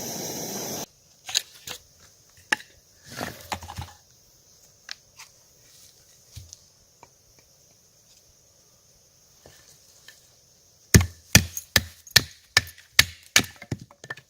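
A steady rushing noise cuts off suddenly within the first second. Then come scattered light knocks, and near the end a quick run of about nine sharp chopping strokes, roughly three a second.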